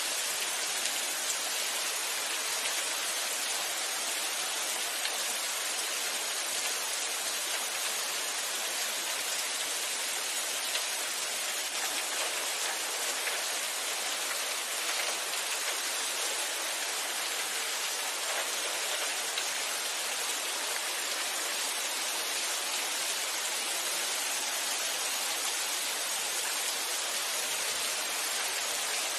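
Steady rainfall: an even hiss of rain with faint scattered drop ticks, holding constant throughout.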